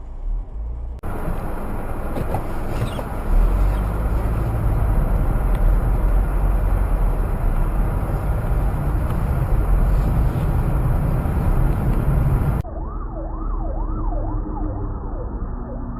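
Loud steady vehicle noise, a rushing sound over a heavy low rumble, which cuts off abruptly near the end. It gives way to a siren sweeping quickly up and down in pitch.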